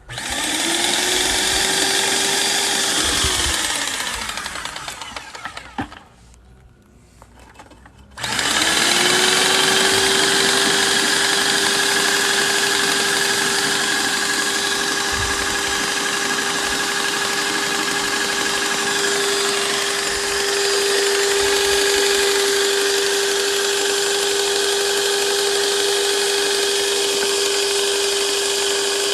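Paint sprayer pump motor running while the pump is flushed clean: it spins up with a steady whine, runs about three seconds, winds down and stops, then after a short pause starts again and runs steadily.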